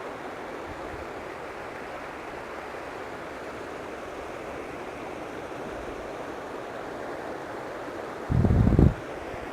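River water flowing, a steady rush. Near the end, a brief low rumble of wind buffets the microphone for about half a second.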